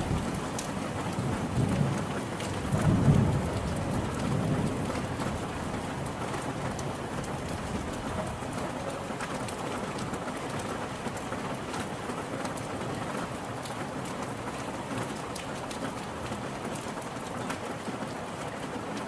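Steady rain falling, with a low rumble of thunder in the first few seconds, loudest about three seconds in.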